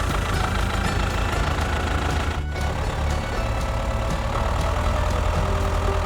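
Diesel tractor engine running steadily with a low, even chug.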